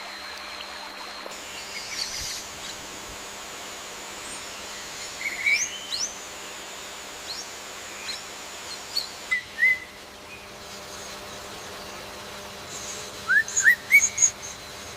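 Birds chirping: short, quick upward-sweeping calls in small groups, with a run of four near the end, over a steady background hiss.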